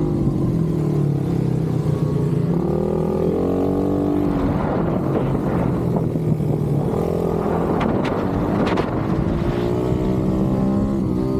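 Pit bike engine revving up and down several times as it accelerates and backs off, with two sharp clicks about eight and nine seconds in.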